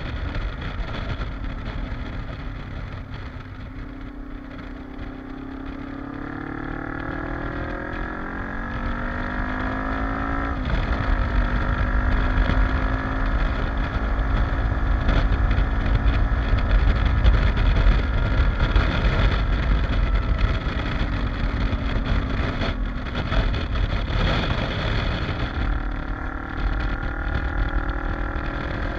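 Kawasaki KLE motorcycle engine on a ride, with heavy wind rumble on the microphone. The revs climb about six seconds in, drop sharply on an upshift about ten seconds in, then hold steady before climbing again near the end.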